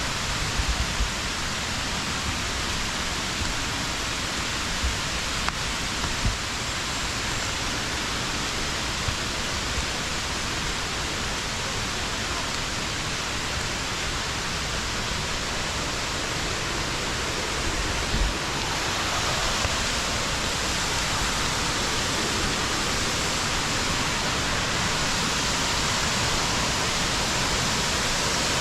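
Steady rush of falling water from a small waterfall. It grows a little louder and brighter about two-thirds of the way through, with a few brief low thumps.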